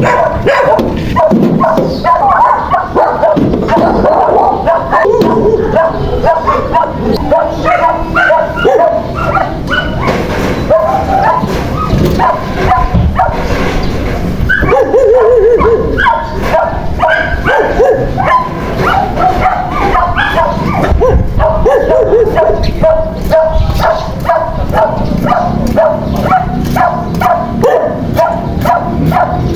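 Dogs barking and whining in a steady stream of short, high calls, one after another, with little pause.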